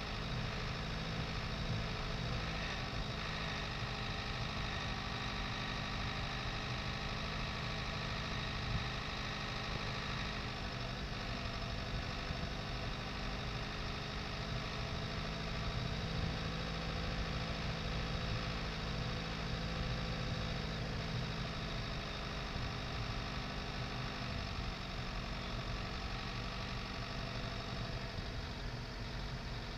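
Dacia Duster's 1.5 dCi diesel engine running steadily at low revs as the car crawls along a grass track, an even drone with low rumble.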